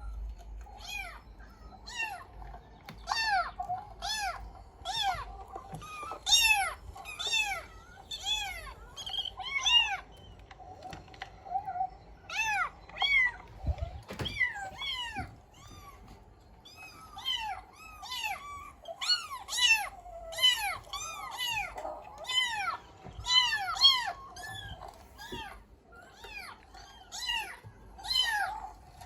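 Cat meowing over and over, short meows coming about one or two a second, each rising and then falling in pitch, with a brief lull about halfway.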